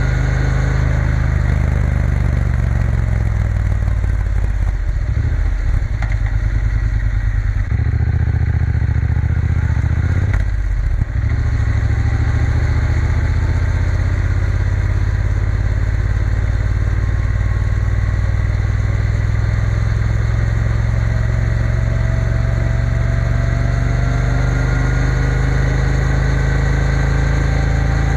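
Triumph Bonneville T120 parallel-twin engine running steadily as the motorcycle rides along. The note is disturbed briefly around five, eight and eleven seconds in, and later rises gradually as the bike picks up speed.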